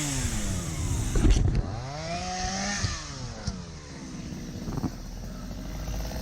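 Small two-stroke chainsaw engine revved and let back down twice, the second time more faintly, with a brief clatter between the two revs.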